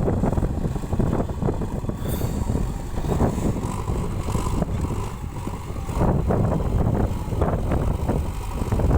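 JCB 3DX backhoe loader's diesel engine running steadily under load, with irregular clattering mixed in.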